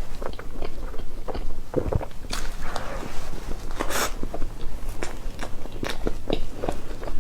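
Close-miked eating of cake: soft bites and wet chewing with many small clicks and smacks, and two short, noisier stretches in the middle.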